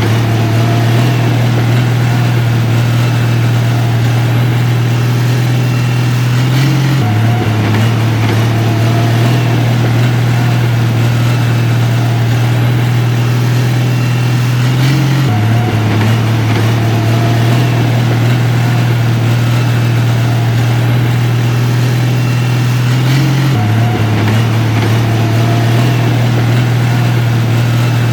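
Heavy diesel engine of construction equipment running steadily at a constant pace. Its low hum shifts slightly about every eight seconds in the same repeating pattern.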